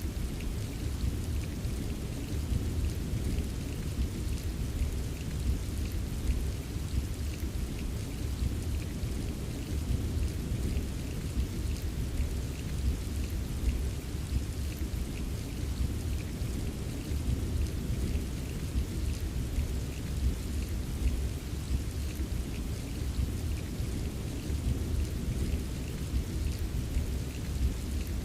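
Rain ambience: steady, even rainfall with a deep, continuous low rumble underneath and faint scattered drop ticks on top.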